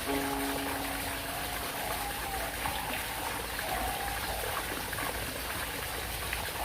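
Birds calling softly and repeatedly over a steady hiss like running water.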